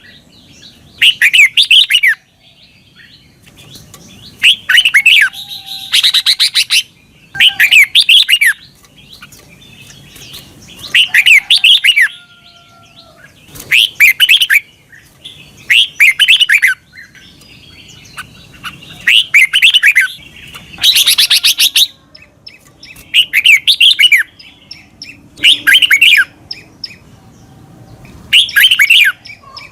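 Red-whiskered bulbul singing: loud, quick warbled phrases about a second long, repeated roughly every two seconds, with faint chirps from other birds in between.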